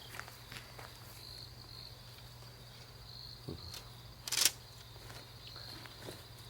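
Crickets chirping in pulses over a steady low hum, with a few light clicks and knocks; the loudest is a short scrape about four and a half seconds in.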